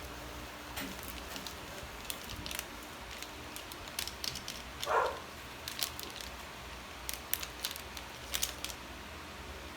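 A dog barks once about halfway through, over scattered light clicks and taps.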